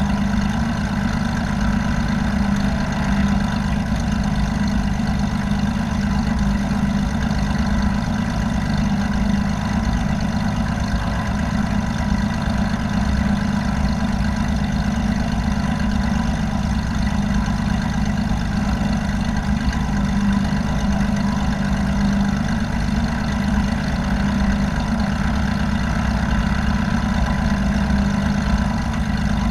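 Light aircraft's piston engine and propeller running steadily: a constant, unchanging drone with a low hum and a few steady higher tones.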